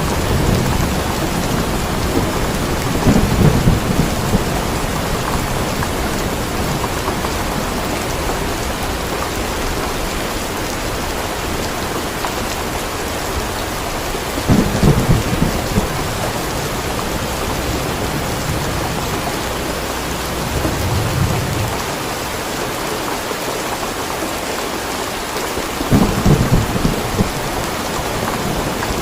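Steady rain falling, with low rumbles of thunder rolling in four times: a few seconds in, about halfway, later on, and near the end.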